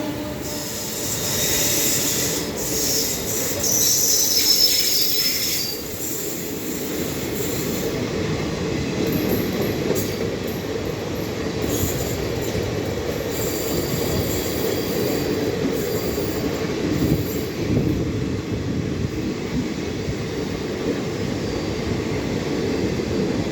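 Express train running through at speed: a steady rumble of wheels on the rails, with high-pitched wheel squeal over the first six seconds or so and fainter squeal later.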